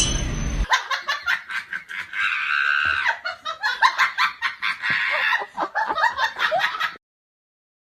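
A person laughing in quick, repeated bursts, with the tail of background music cut off just before. The laughter stops abruptly near the end.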